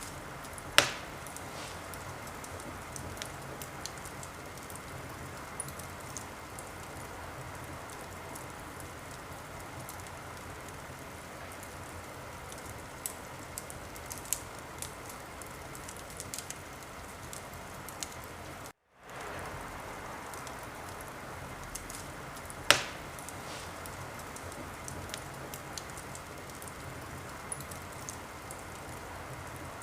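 Wood fire burning in a fireplace: a steady hiss with scattered small crackles and two loud pops, one about a second in and one past the middle. The sound cuts out for a fraction of a second a little before the second pop.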